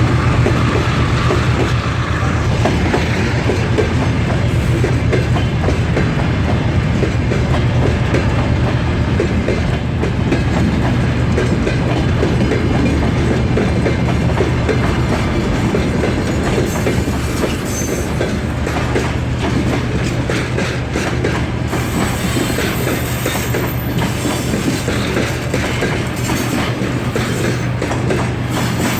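Freight train rolling past steadily, its wagon wheels clicking over the rail joints over a continuous low rumble.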